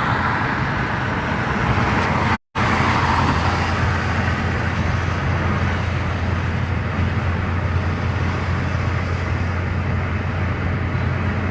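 A car driving along a road: steady engine hum and tyre-on-road noise. The sound cuts out completely for a fraction of a second about two and a half seconds in.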